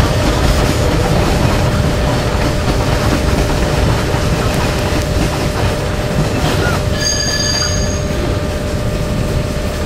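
Rake of passenger coaches rolling slowly over station pointwork: a steady rumble of wheels on rail with a steady hum, and a brief high-pitched wheel squeal about seven seconds in.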